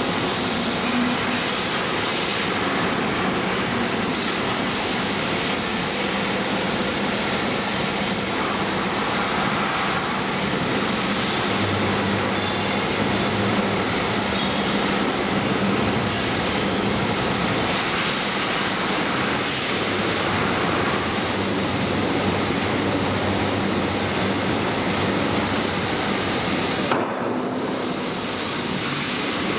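Steady rushing noise of a train in motion, with a faint low hum under it; the sound breaks off briefly near the end.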